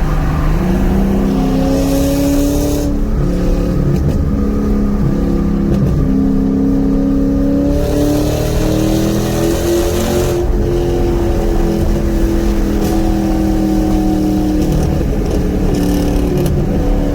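Cammed V8 with a Borla ATAK exhaust accelerating hard, heard from inside the car with the windows cracked. The engine note climbs in pitch, steps, climbs again, then falls away about ten seconds in as the throttle comes off. The exhaust leaks have just been welded shut.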